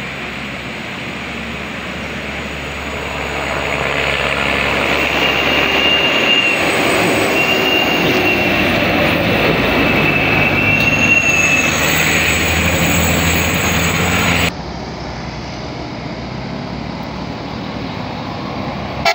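A heavy vehicle running, loud and steady, with a thin high-pitched squeal in the middle. It cuts off abruptly about three-quarters of the way through, giving way to a quieter, duller rumble.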